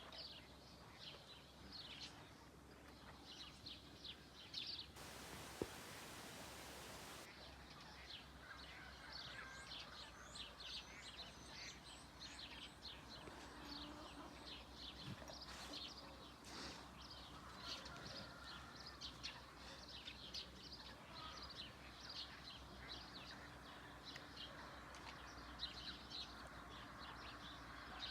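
Faint, rapid chirping of small birds, many short high notes running on throughout. A brief hiss comes in about five seconds in.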